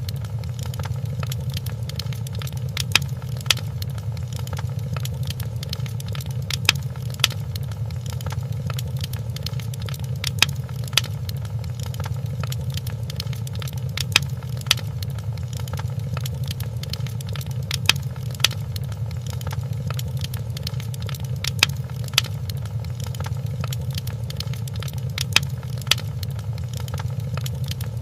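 Wood fire burning in a fireplace: a steady low rumble of flames with sharp crackling pops every second or few.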